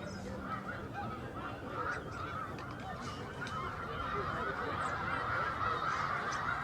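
Dense chorus of a large flock of wild geese honking, many overlapping calls at once, growing louder about four seconds in.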